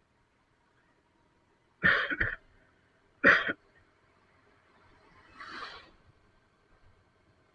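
A person coughing: a quick double cough about two seconds in, a single cough a second later, then a softer breathy exhale.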